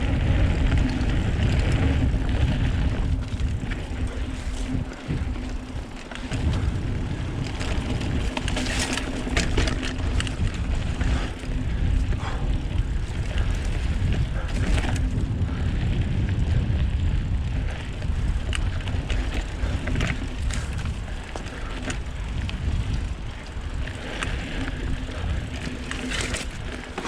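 Wind buffeting the action camera's microphone while a mountain bike rides a dirt trail, with tyre rumble and scattered rattles and clicks from the bike over bumps.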